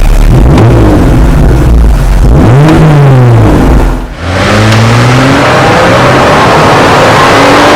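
Jeep Wrangler JL's 3.6-litre V6 through an aftermarket exhaust, blipped twice in quick revs. After a brief drop in sound about four seconds in, it runs louder and steadier under load, its pitch slowly rising.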